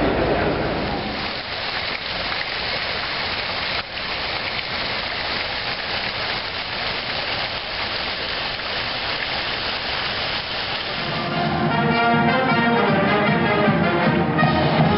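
Steady rushing, splashing water, a hiss like a fountain or small waterfall. About eleven seconds in it gives way to louder brass music.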